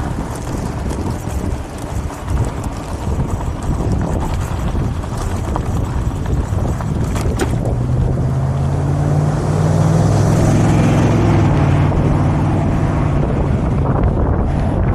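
Wind buffeting the microphone, joined about halfway through by the steady hum of an engine that grows louder and holds.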